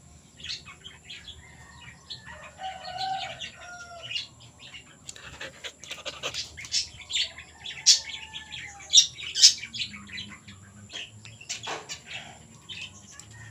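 Birds chirping in short, sharp, high-pitched calls, repeated irregularly, with a brief lower call about three seconds in.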